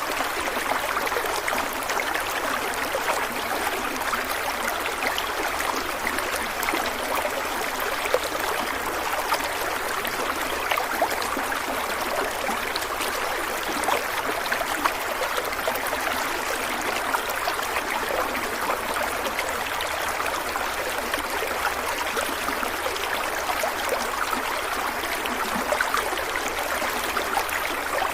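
A stream of water flowing steadily, with a continuous rush and many small splashes and gurgles.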